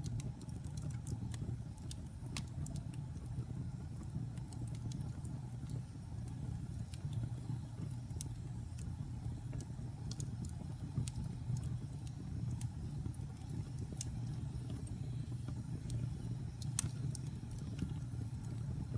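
Wood fire burning in a fireplace: a steady low rumble with scattered sharp crackles and pops, one of them louder near the end.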